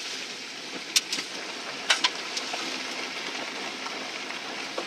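Steady road noise from a moving vehicle, with two sharp clicks about one second and two seconds in.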